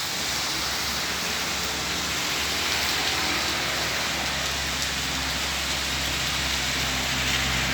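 Heavy rain falling, a dense steady hiss. About halfway through a low steady hum joins underneath.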